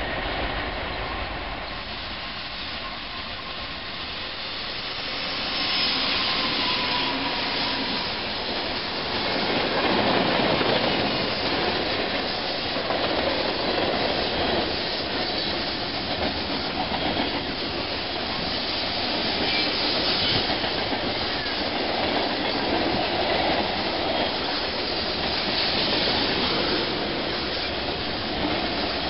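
Freight train of tank cars and boxcars rolling past close by, a continuous rumble of steel wheels on the rails that grows louder about five seconds in as the train arrives.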